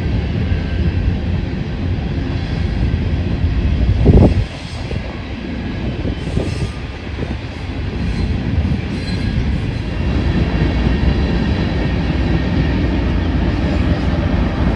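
A train rolling past, a steady rumble of wheels on rail, with one loud thump about four seconds in.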